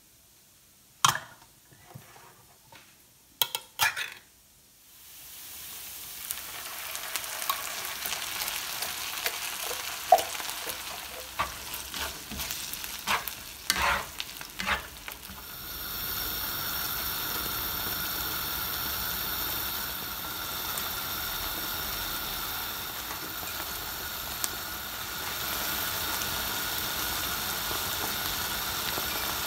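A few sharp metallic clicks as a ring-pull can of Heinz baked beans is opened. Then beans and onions sizzle in a frying pan while a spatula stirs and scrapes against the pan. From about halfway this settles into a steady sizzle as the sauce simmers.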